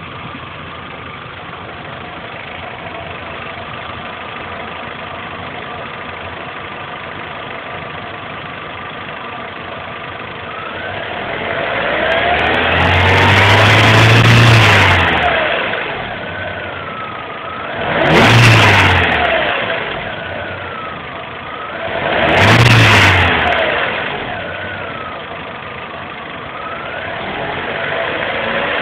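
Chevrolet Corsa 1.4 Flexpower four-cylinder engine idling steadily, then revved: one longer rev about halfway through, followed by two quick blips, with the revs starting to climb again near the end.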